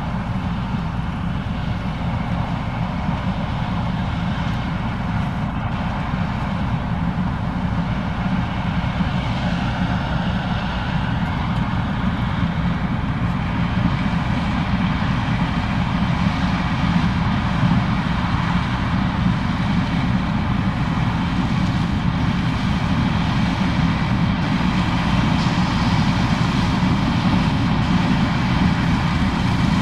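Case IH 2366 combine running steadily while harvesting corn, a continuous machine drone that grows slowly louder.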